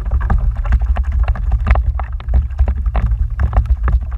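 Wind rumbling on the microphone aboard a fishing kayak, with quick irregular splashes and knocks of water and gear against the hull, several a second.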